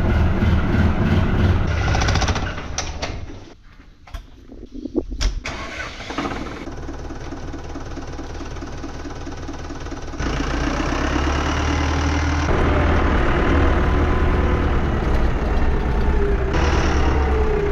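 A vehicle engine running, which dies away a few seconds in. A few sharp clicks follow, then an engine starts and idles with an even beat, running louder from about ten seconds in.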